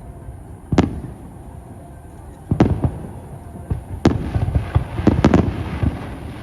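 Aerial firework shells bursting overhead: about five separate booms over six seconds, each trailing off in a low rumble. A spatter of smaller pops follows around the fourth and fifth seconds.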